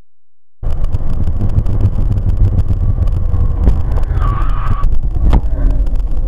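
Car on the move heard through a dashcam: a steady, loud low rumble of engine and road noise, cutting in suddenly about half a second in. A short high-pitched squeal comes about four seconds in, and a sharp knock follows about a second later.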